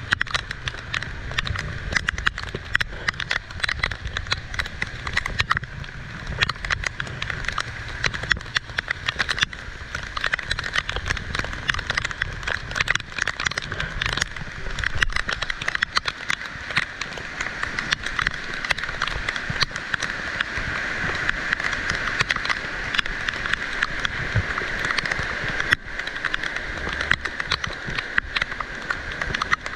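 Heavy rain falling steadily, a dense patter of drops on hard surfaces with a low rumble underneath.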